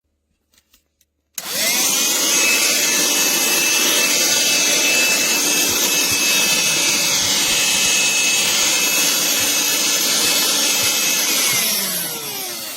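Black+Decker Dustbuster cordless handheld vacuum switched on about a second in, its motor whirring up to speed and running steadily for about ten seconds. Near the end it is switched off and winds down, its pitch falling.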